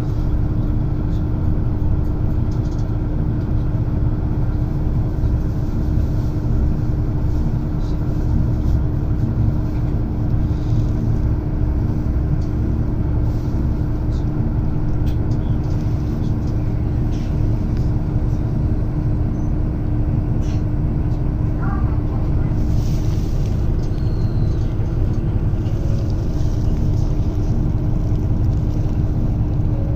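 Diesel engine of a JR Shikoku 2700 series railcar, heard inside the car: a steady, loud low rumble with a constant hum over it.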